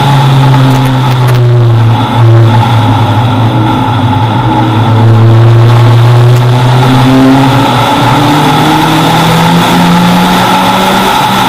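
Toyota Celica's engine running hard at high revs, heard from a camera on the bonnet, with a brief break about two seconds in like a gear change and the pitch climbing again over the last few seconds.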